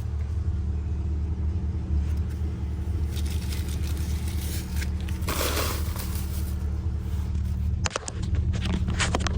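A car engine idling steadily. About five seconds in there is a short rustling scrape, and a few sharp clicks come near the end.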